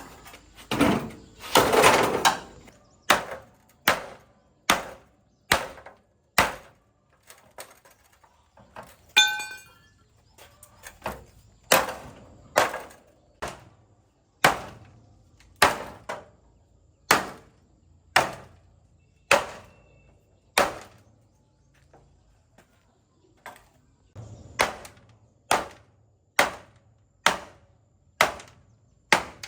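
Repeated hammer blows, a steady run of sharp strikes a little more than one a second, with a brief break near the middle. A longer, louder scraping or clattering noise comes about two seconds in.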